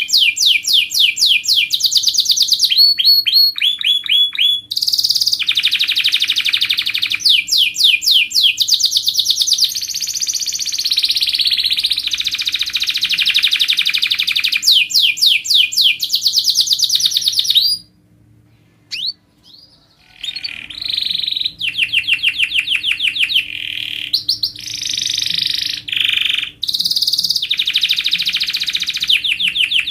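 Domestic canary singing a long, loud song made of fast rolls of repeated high notes, some rapid falling sweeps and some buzzy trills, changing from one roll to the next every second or two. The song breaks off for about two seconds roughly two-thirds of the way through, then resumes.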